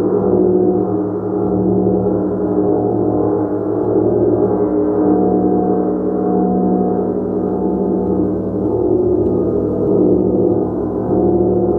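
Gong played continuously: a dense, sustained wash of many overlapping tones that swells gently in loudness without any clear single strike.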